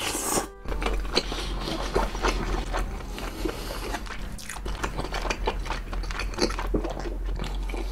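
Close-miked chewing of a big mouthful of king crab meat: a steady run of wet mouth sounds and many small clicks.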